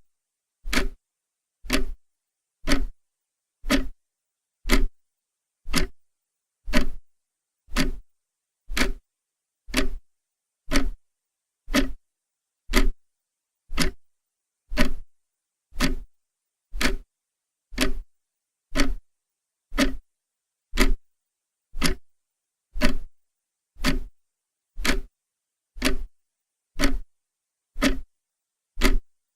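Clock ticking steadily, one sharp tick every second with silence between ticks.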